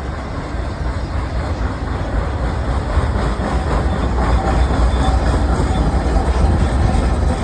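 A BNSF mid-train distributed power (DPU) diesel locomotive passing close by, its deep engine rumble mixed with the wheels rolling on the rails, growing slightly louder as it nears.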